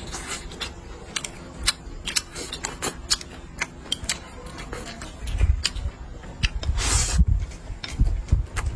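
Eating sounds at close range: irregular clicks and taps of utensils on dishes, with low thumps in the second half and a brief rustle about seven seconds in.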